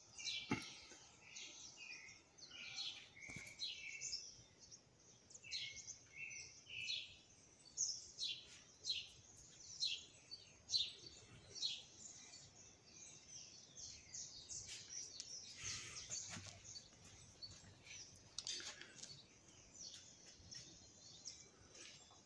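Small birds chirping faintly: a steady run of short, high chirps, one or two a second, with a few longer warbling notes in the first few seconds.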